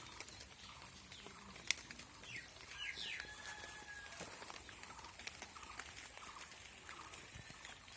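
Birds chirping in a rainy garden, with a quick run of sharp chirps and a held whistle about two to four seconds in, over light rain dripping with scattered drop clicks.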